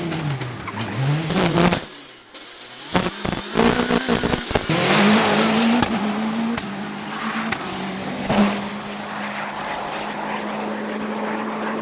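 Citroen DS3 WRC rally car's turbocharged four-cylinder engine heard on board at speed, revs falling and rising through the gears. About two seconds in the sound drops away briefly, then several sharp bangs follow before the revs climb again and hold steady near the end.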